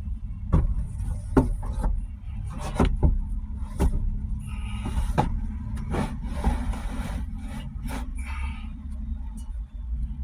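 Wooden boards knocking and sliding against each other as lumber is handled into a minivan, about a dozen sharp knocks at irregular intervals over a steady low rumble.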